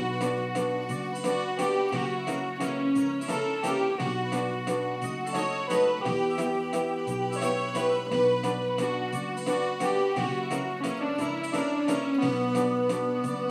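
Supra SKB-615S home synthesizer playing a folk-song melody in an electric-piano voice over chords and a bass line, with a steady beat from its built-in rhythm accompaniment.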